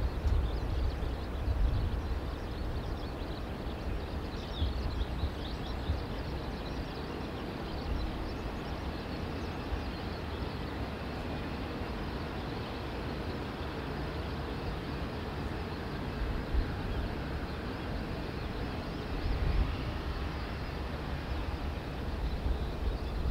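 Strong wind rushing and buffeting the microphone in gusts, with a deep rumble that swells at the start, again near the end, and briefly in between.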